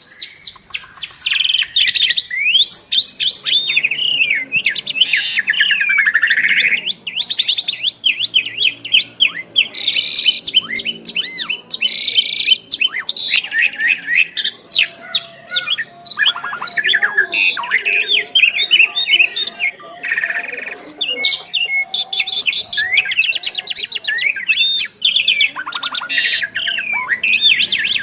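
Two Javan pied mynas (jalak suren) singing continuously together, a busy mix of whistles, rising and falling glides and rapid rattling trills.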